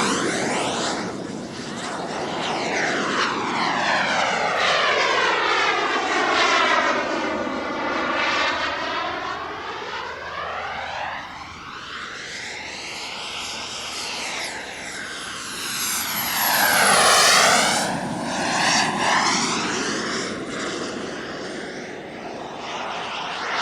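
Model jet's turbine running with a steady high whine as the plane makes several passes, its rushing noise sweeping up and down as it comes and goes. The loudest pass comes about 17 seconds in, where the whine briefly rises in pitch.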